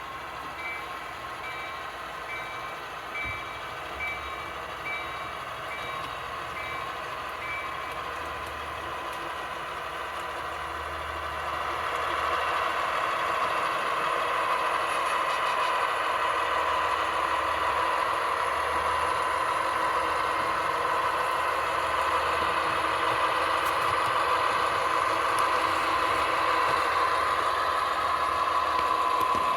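Model diesel engine sound from the HO scale Athearn SW1500 switchers, running at a low idle and then revving up and louder about twelve seconds in as they pull the cars. A steady repeated beeping sounds over it for the first several seconds.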